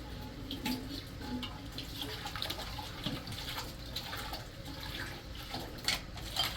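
Water running from a tap into a sink, with a few light knocks.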